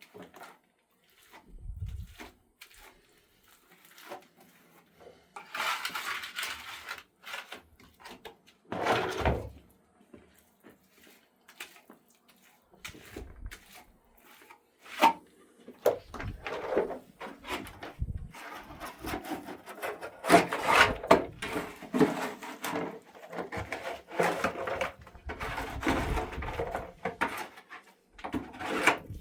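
Irregular knocks, clatter and scraping of objects being handled, sparse at first and busier through the second half.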